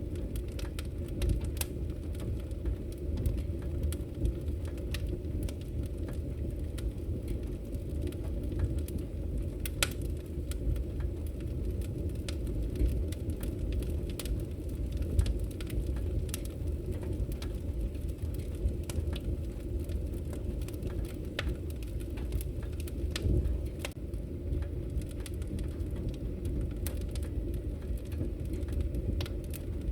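Wood fire burning in a fireplace: a steady low rumble with frequent irregular sharp crackles and pops.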